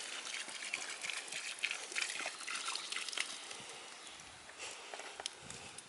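Water poured from a plastic bottle onto a smouldering campfire, splashing and crackling on the embers. It fades away after about four seconds.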